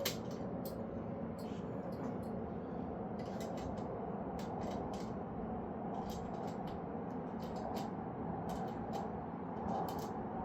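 Irregular light clicks and taps of metal bike parts and hand tools being handled during hand assembly, over a steady background noise.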